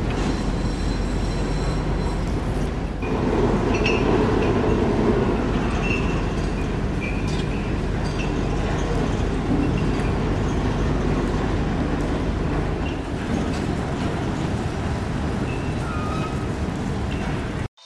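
Steady rumble of a train rolling on the rails, with a few brief high squeals over it. The rumble grows louder about three seconds in and cuts off suddenly near the end.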